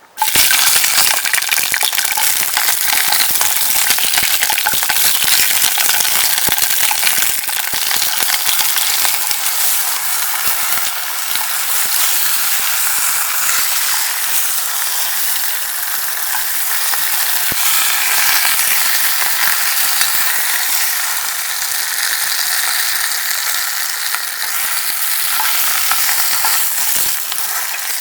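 Food sizzling hard in hot oil in a pan. It starts suddenly and then keeps going with steady, dense crackling.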